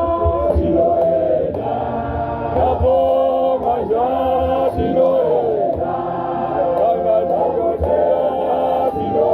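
A choir of men's voices singing together in harmony, with long held notes.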